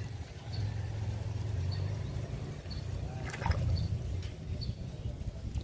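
Wind buffeting the microphone with a steady low rumble, a faint high chirp repeating about once a second and a brief rustle about three and a half seconds in.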